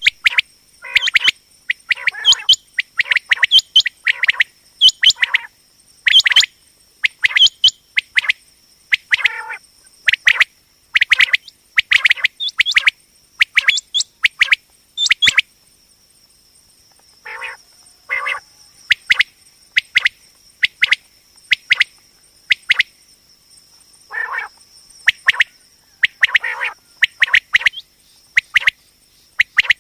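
Common quail calling: short, sharp notes in quick clusters of two or three, repeated about once a second, with a pause about halfway through. A steady, thin, high-pitched whine runs underneath.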